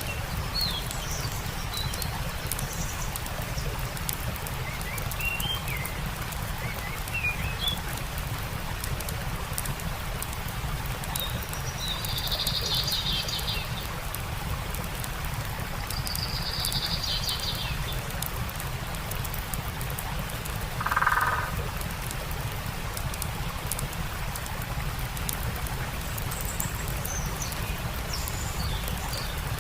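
Steady rush of a stream with the small snaps of a campfire crackling throughout. Birds chirp briefly a few times, most clearly twice near the middle, and a short lower call sounds about two-thirds of the way through.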